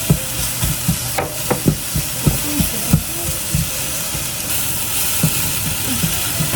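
Food sizzling in a hot frying pan as it is stir-fried, a steady hiss with irregular clacks of a utensil against the pan.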